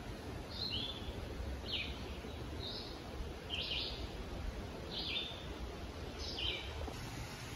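A songbird singing short falling phrases, about one a second, with a steady low rumble of forest ambience underneath.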